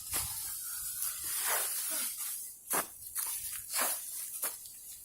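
Dry fallen leaves rustling as someone shuffles and kicks through them, with a few sharp swishes in the second half.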